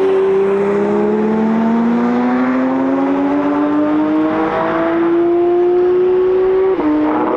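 Car engine accelerating hard under load, its pitch climbing steadily through a long pull in one gear. Shortly before the end a quick upshift drops the pitch, and it starts climbing again.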